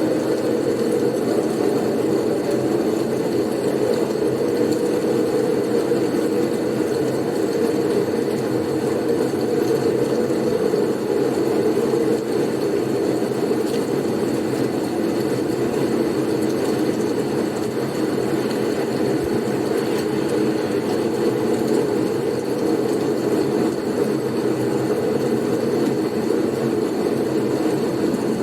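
Blizzard wind sound: a steady, unbroken rush of snowstorm wind with a deep, low rumble and no distinct gusts.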